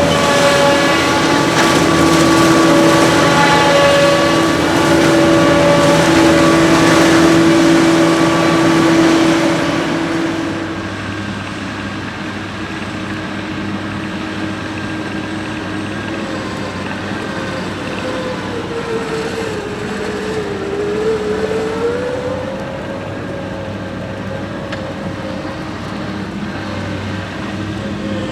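Heavy diesel machinery running steadily with a strong steady hum. About ten seconds in it drops to a quieter running sound with a tone that wavers up and down.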